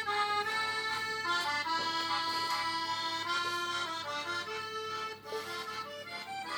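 Accordion music with a melody over held chords.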